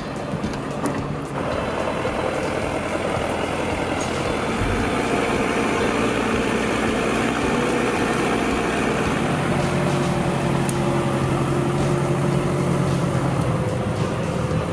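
Heavy vehicle engine running steadily. It grows louder about a second and a half in, and a deeper tone strengthens for a few seconds past the middle.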